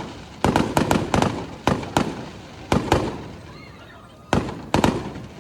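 Aerial fireworks bursting: a quick volley of sharp, echoing bangs, a lull of about a second after three seconds, then three more bangs near the end.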